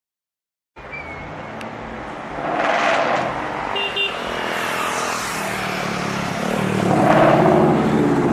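A Ford Mustang Cobra's V8 engine running, swelling louder about a third of the way in and again near the end. It opens with a moment of dead silence.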